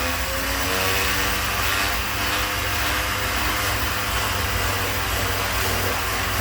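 Bosch variable-speed oscillating sander running steadily while sanding a wooden handle. Its motor pitch dips briefly near the start, then holds steady.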